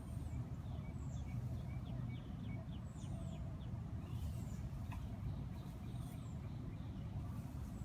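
Small birds chirping: short high calls repeating every second or two, with a quick run of chirps in the first few seconds, over a steady low rumble.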